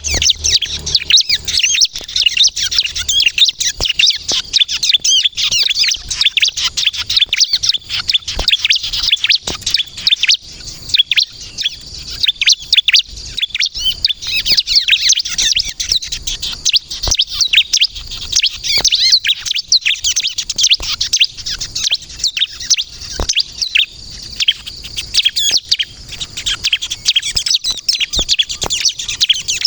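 Bar-winged prinia (ciblek) singing continuously and energetically: a rapid, unbroken stream of high, sharp chirps and trills.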